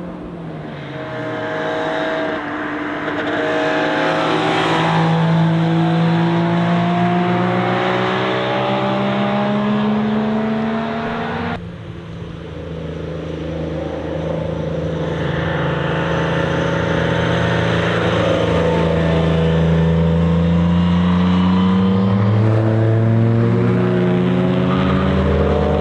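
Car engines passing close by, their pitch falling and rising as they slow and pull away again. The sound cuts abruptly about eleven seconds in to another car doing the same.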